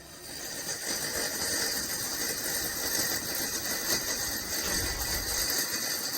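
Dreo electric wall heater's fan coming on and blowing steadily: a hiss of moving air that swells over about the first second, then holds even.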